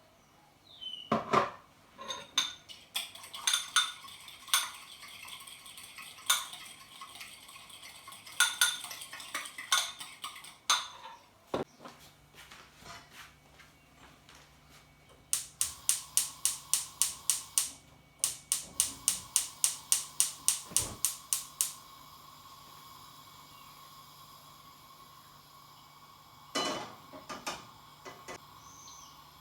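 Metal kitchen utensils clinking against dishes and bowls, irregular at first, then a fast even run of clinks about five times a second for several seconds. A faint steady hum starts about twelve seconds in.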